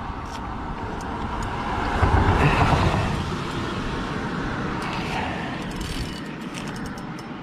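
Road traffic on a bridge overhead, a steady rush of tyre and engine noise that swells as a vehicle passes about two seconds in.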